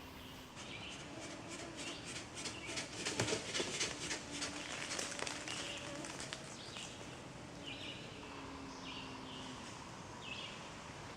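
Short bird calls repeating every second or two. Rapid crackling and clicking runs through the first half, loudest a few seconds in.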